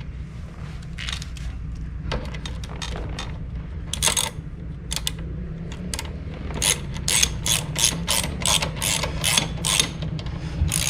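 Hand ratchet wrench clicking as bolts are run in on the clutch housing: a few scattered clicks at first, then a quick even run of about three clicks a second in the second half.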